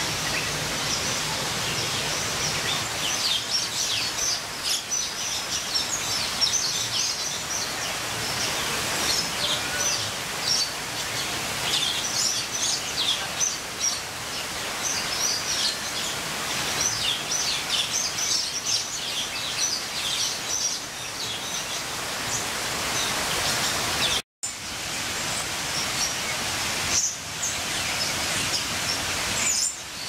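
Many birds chirping and calling in quick, overlapping short high notes over a steady background hiss; the sound cuts out for an instant about 24 seconds in.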